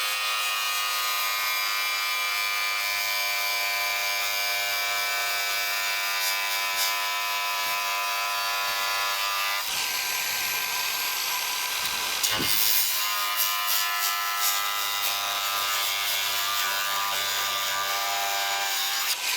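A small electric power tool running continuously with a steady buzzing whine, working on metal engine parts; its note shifts abruptly about halfway through, and a few light knocks come near the middle.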